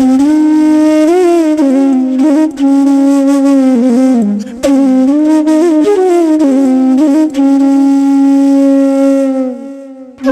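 Solo flute music: a single slow melody of long held, low notes that slide and bend between pitches, breaking off briefly about halfway and fading out near the end.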